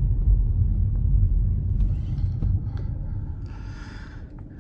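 Low rumble of a car on the move, heard from inside the cabin, dying down steadily over the last couple of seconds.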